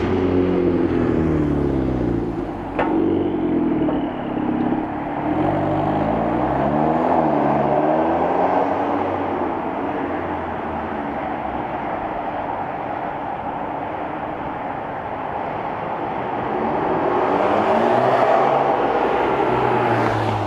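Volkswagen Golf R Mk6's turbocharged 2.0-litre four-cylinder running through a valved cat-back exhaust, its pitch rising and falling several times as it revs or pulls through the gears. It steadies for a while, then climbs again near the end.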